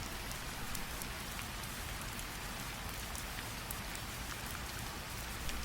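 Steady rainfall from a rain sound effect: an even hiss of rain with faint scattered drop ticks.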